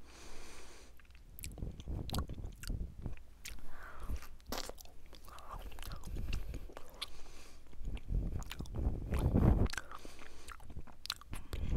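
A person chewing and biting close to the microphone: many small sharp mouth clicks, with louder stretches near the end.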